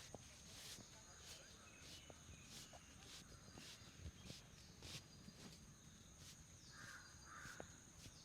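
Near silence, with faint, irregular soft scratching strokes about once or twice a second over a faint steady high whine.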